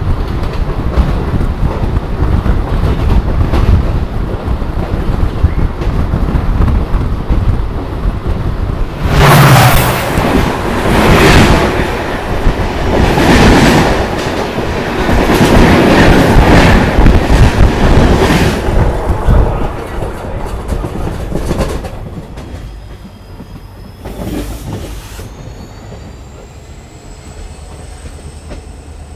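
Passenger train heard from inside a coach, running along the track with rumbling and clickety-clack of the wheels. For about ten seconds in the middle the rattling and rushing grows much louder, then the noise drops away. Near the end a thin high squeal rises in pitch.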